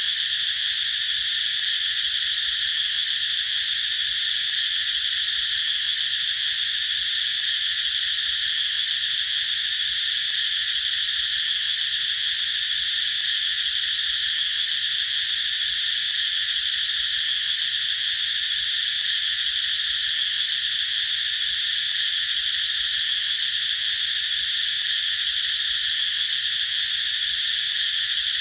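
Cicadas singing in a continuous, unbroken high-pitched drone that holds steady throughout.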